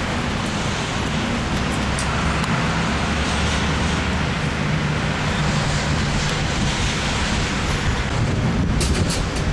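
Car driving on a snowy road, heard from inside the cabin: a steady engine hum and road noise, with a few sharp clicks near the end.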